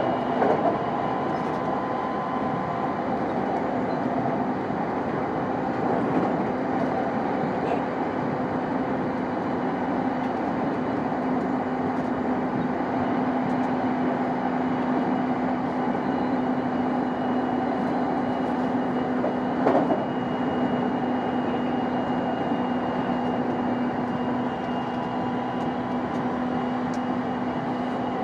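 JR East E233 series 5000 subseries electric commuter train running at a steady speed, a continuous rumble with a steady hum from the running gear. A brief clack comes just after the start and a louder one about two-thirds of the way through.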